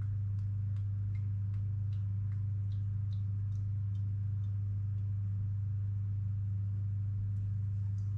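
A steady low electrical hum from a running kitchen appliance, with faint scattered ticks over it.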